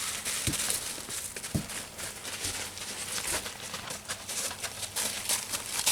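Footsteps and rustling while walking, a steady stream of irregular scuffs and clicks with a couple of low thumps.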